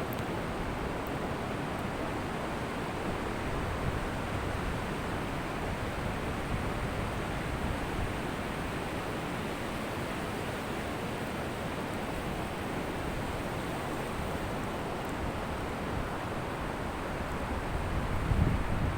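Ocean surf washing ashore as a steady roar, with a louder wave surging and rumbling near the end. Some wind on the microphone.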